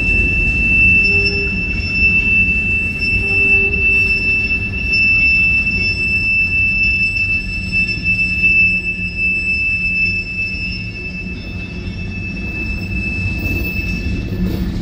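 Freight train of covered hopper cars rolling past, its steel wheels giving a steady high-pitched squeal over the low rumble of the cars. The squeal fades out near the end.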